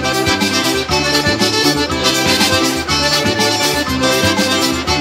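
Instrumental break of a forró song: accordion playing the melody over a steady percussion beat.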